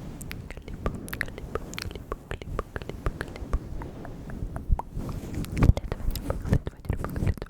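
Close-miked ASMR mouth sounds: many quick, irregular wet clicks and smacks of lips and tongue over a low rumble, with a few louder pops about two-thirds of the way through.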